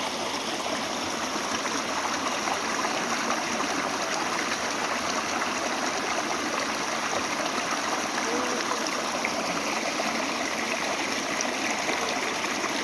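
Mountain stream water rushing and splashing over rocks, a steady unbroken flow.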